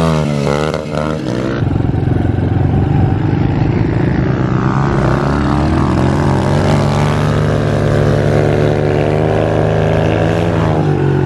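Minibike engine running at high revs. Its pitch dips and climbs quickly in the first second and a half, then holds fairly steady with slow rises and falls as the throttle changes.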